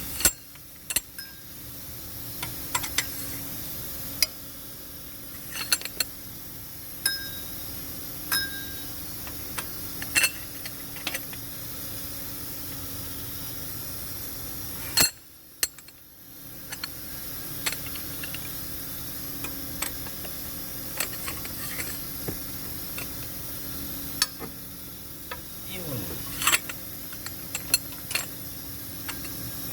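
Scattered metallic clicks, clinks and light knocks of hand tools and engine parts being handled, over a steady background hum.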